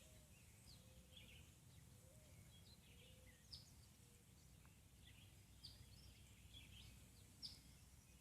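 Faint birds chirping, with short high calls scattered throughout. Under them, the faint wavering buzz of a bee's wings drifts in and out during the first few seconds.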